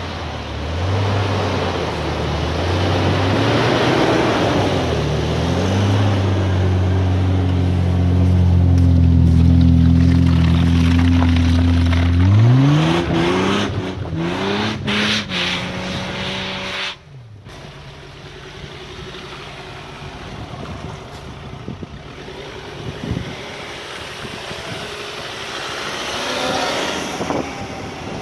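Off-road 4x4 engine running under load, its pitch climbing steadily, then revved hard in a few quick blips. About two-thirds of the way in it cuts off abruptly, leaving wind noise on the microphone.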